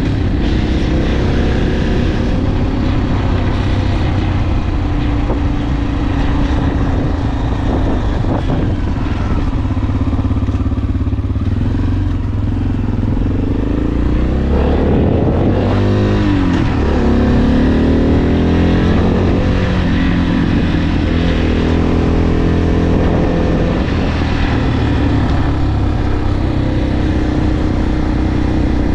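Motorcycle engine running under way, its pitch shifting up and down several times, over steady wind and road noise.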